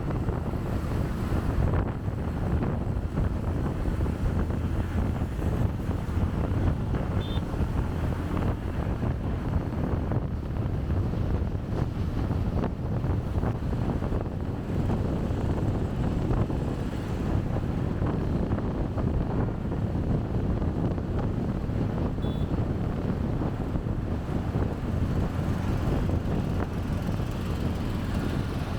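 Wind rumbling steadily on a chest-mounted camera's microphone during a motorbike ride, with road and traffic noise underneath. Two brief faint high beeps come about a quarter of the way in and again about three quarters in.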